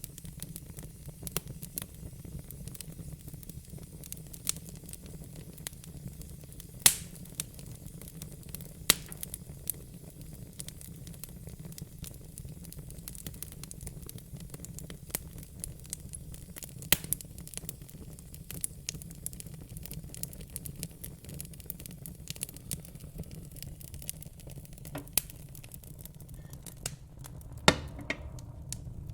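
Fire crackling: irregular sharp pops and snaps, a few of them much louder, over a steady low rumble.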